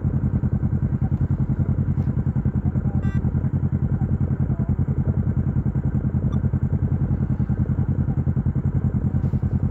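Dirt bike engine idling, a steady rapid pulse of about twelve beats a second.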